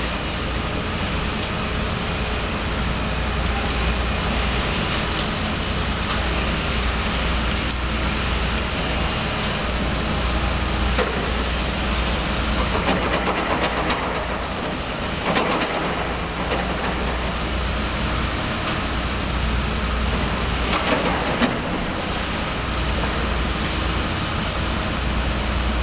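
Heavy demolition machinery running steadily with a low engine hum. Clattering and knocking of debris come at intervals, louder around the middle.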